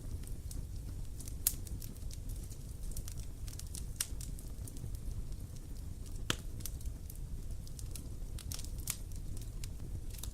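Campfire burning with a steady low rumble and irregular sharp crackles and pops of the burning wood, the loudest pops about a second and a half, four and six seconds in.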